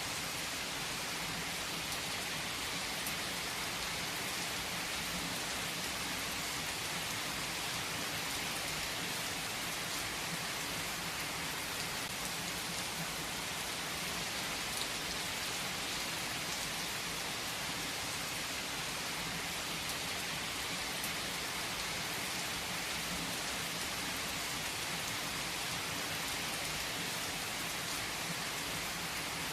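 Steady, even rain falling and pattering on surfaces, with occasional faint individual drop ticks.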